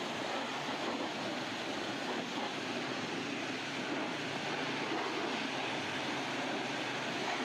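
Car wash equipment running: a steady, even rushing noise.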